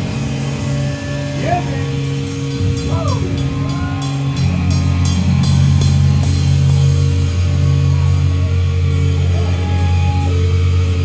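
A heavy rock band playing live: distorted guitar and bass holding low chords over drums, with a run of quick drum hits partway through.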